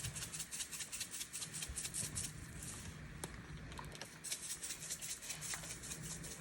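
A spice shaker of garlic powder being shaken over raw chicken drumsticks: quick runs of light, high rattling ticks in several bursts, with short pauses between them.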